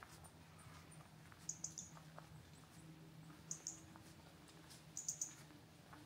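A small bird giving high, thin calls in short bursts of three or four quick notes, repeated about every one and a half to two seconds.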